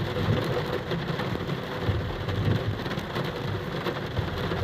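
Steady rain falling, with a low rumble underneath throughout.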